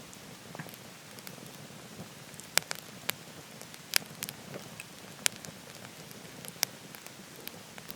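Wood fire burning in a wood stove, crackling with about half a dozen sharp pops, the loudest a few seconds in, over a steady rushing hiss.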